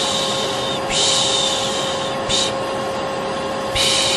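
Vacuum cleaner running steadily with a constant whine, overlaid by a repeated 'shh' shushing of the kind used to lull a baby to sleep. The shushes last about a second each, with one brief shush in the middle and another starting near the end.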